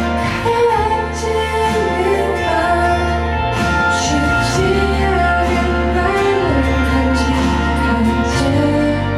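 A woman singing a pop song live with instrumental accompaniment and a steady bass line.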